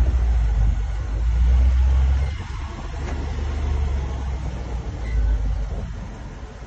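Low rumble of the Range Rover Sport SVR on the move, swelling and easing, with no clear brake squeal standing out.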